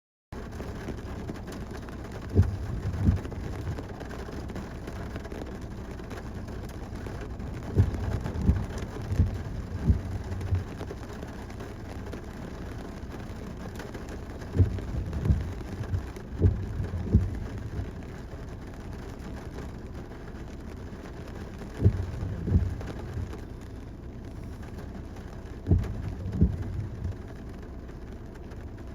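Steady car road noise heard from inside a vehicle driving in rain. Short low thumps come in pairs or small groups every five or six seconds.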